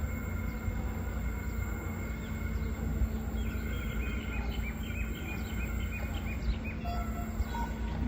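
Steady low background rumble with a faint steady hum, and a small bird giving a quick run of short chirps for a few seconds in the middle.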